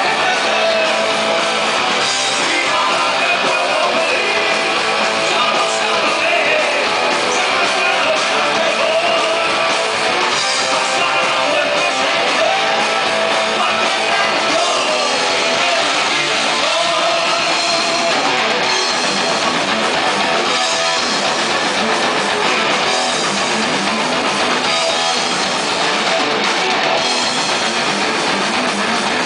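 A rock band playing live at full volume: electric guitars and drum kit in a dense, steady wall of sound, thin in the deep bass.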